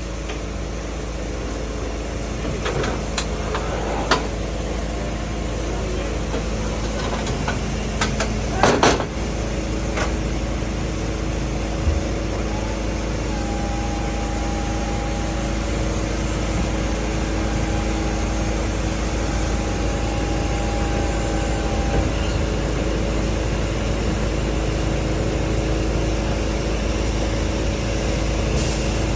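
Steady drone of engines running, a constant mechanical hum. A few sharp knocks sound in the first ten seconds, and a faint high tone comes and goes through the middle.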